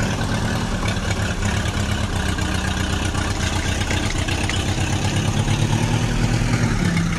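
Vehicle engine running steadily, with a rapid even chugging pulse.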